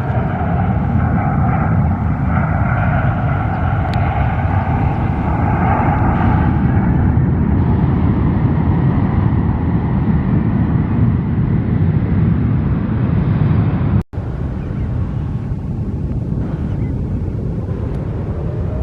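Jet airliner engines: a loud steady rumble with a high whine over it for the first several seconds, which then fades away. The sound cuts out for an instant about fourteen seconds in.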